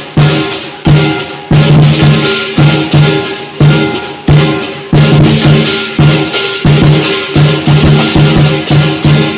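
Lion dance percussion: a large lion dance drum beaten hard in a driving rhythm, with cymbals clashing and ringing over it. Heavy accents come about every half second to second.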